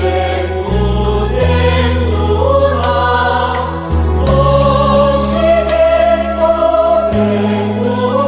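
Buddhist devotional hymn praising Guanyin: voices singing a slow melody over sustained low bass notes that change every one to three seconds.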